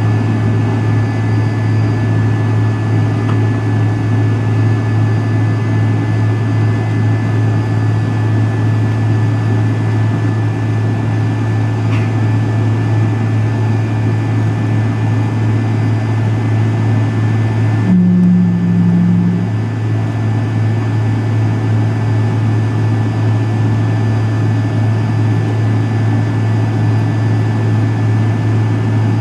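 Steady engine drone and airflow heard inside the cabin of a McDonnell Douglas MD-83, from a seat near its tail-mounted Pratt & Whitney JT8D engines, with a strong low hum. A brief extra low hum comes in for about a second and a half about two-thirds of the way through.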